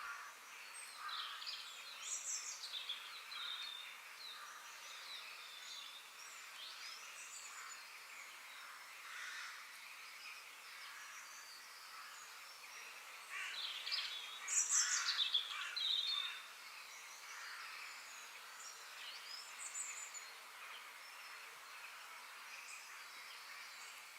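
Several birds calling and chirping in short, gliding phrases over a steady faint background hiss, with a louder flurry of calls about two-thirds of the way through.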